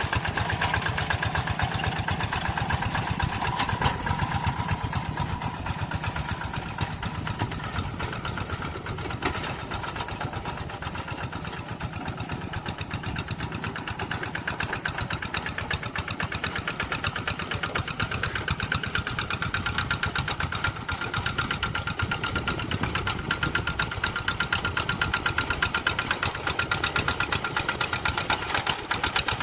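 Tractor engine running steadily with a fast, even firing rhythm, a little quieter around the middle before picking up again.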